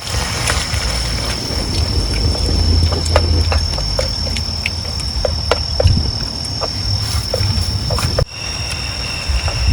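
Insects calling in one continuous high-pitched tone over a low rumble and scattered light clicks. Shortly before the end a second, lower insect tone joins in.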